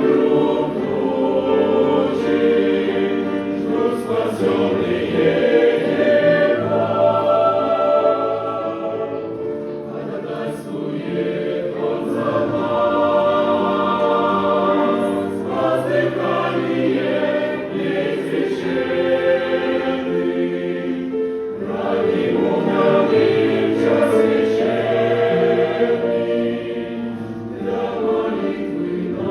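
Church choir singing a Russian hymn in sustained, many-voiced phrases that swell and ease every few seconds.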